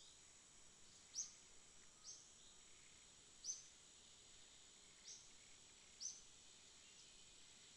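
Night insect chorus: a faint, steady high-pitched hum, with a sharp high chirp five times, roughly a second apart.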